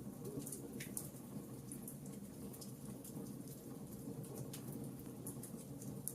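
Fireplace fire crackling: a steady low rumble of flames with frequent small pops and snaps, a sharper pop about a second in and another near the end.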